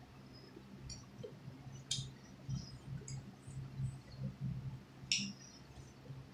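Mouth noises of eating a cheese-stuffed croissant: chewing with wet lip smacks and clicks at irregular intervals, the sharpest about five seconds in, over a low steady hum.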